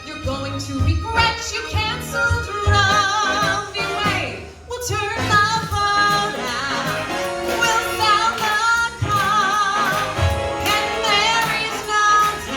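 A woman singing a show tune over instrumental backing, holding long notes with a wide vibrato.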